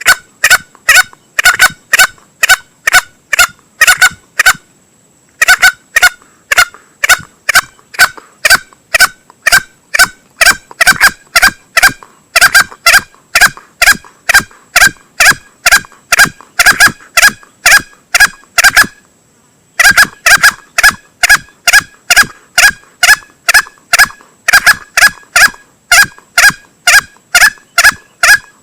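Male green junglefowl call played as a hunting lure: rapid, evenly spaced short notes at about three a second, in long runs broken by two brief pauses, about five seconds in and about nineteen seconds in.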